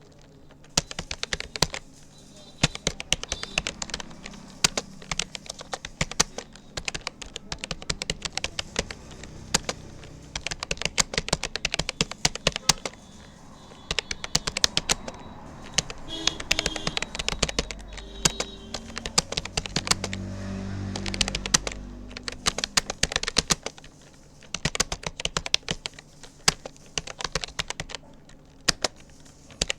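Rapoo computer keyboard being typed on at a steady touch-typing pace (about 36 words a minute): rapid, irregular key clicks with a few short pauses.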